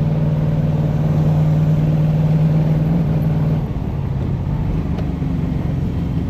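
Iso Grifo's V8 engine running steadily under load, then about three and a half seconds in the engine note drops lower in pitch and a little quieter.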